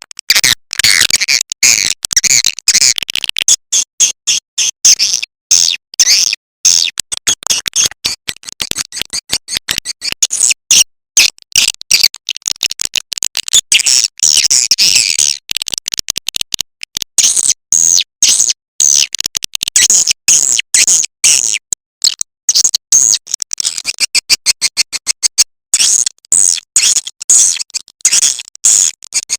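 Recorded swiftlet call track: rapid, high-pitched twittering chirps in quick clusters broken by many short gaps. It is the lure sound that swiftlet farmers play to draw swiftlets into a nesting house.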